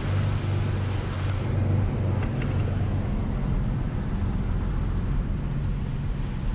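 Nissan 300ZX Z32's V6 engine idling steadily, heard from inside the cabin.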